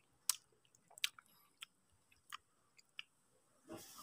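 Faint mouth sounds of someone eating a spoonful of soft mung bean and coconut cream pudding: a handful of short, wet clicks and lip smacks while chewing, then a soft breath near the end.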